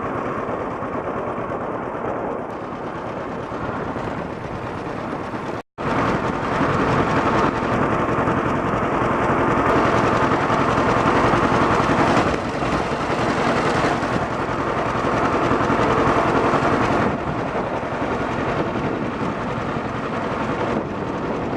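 Tractor engines running, a dense steady mechanical noise that changes abruptly several times, with a brief dropout about six seconds in.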